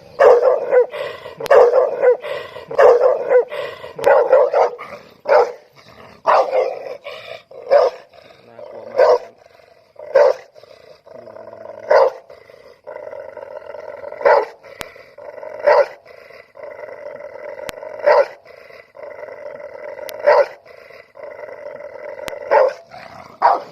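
Large dog barking loudly and repeatedly, about two barks a second at first and slowing to about one a second. From about halfway on, a steady growl runs between the barks.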